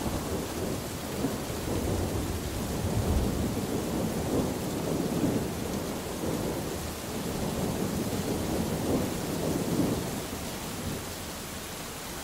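Thunder rolling in several long, low rumbling waves over steady rain. The rumble dies away near the end, leaving only the rain.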